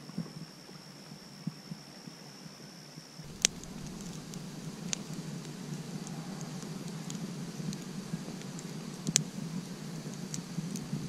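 Campfire crackling, with scattered small crackles and a few sharp pops over a steady low rush. In the first three seconds, before the crackling starts, a steady high-pitched tone sits over a quieter rush.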